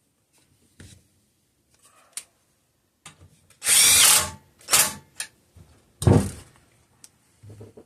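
Power drill driving in a bolt for the lower fuel tank bracket in several short bursts, the longest lasting nearly a second, after a few light clicks of handling.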